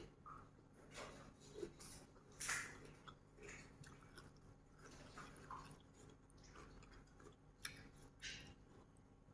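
Faint chewing and wet mouth sounds of someone eating, with soft smacks and clicks at irregular moments over a low steady room hum.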